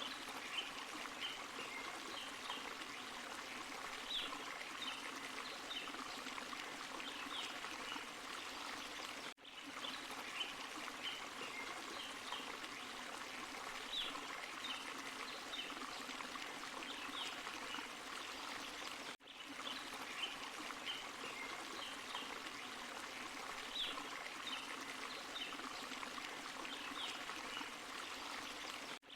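Small forest waterfall and stream, water running and splashing steadily over rocks. The recording is a loop about ten seconds long, with a brief dip in level where it repeats, three times in this stretch.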